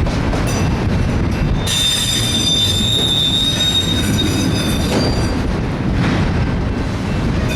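Auto rack freight train rolling past: a steady rumble of steel wheels on rail, with a high-pitched wheel squeal from about two seconds in until about five seconds in.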